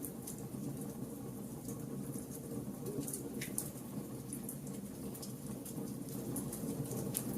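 Wood fire burning: a steady low rush of flames with scattered sharp crackles and pops from the burning wood, one heavier pop about three and a half seconds in.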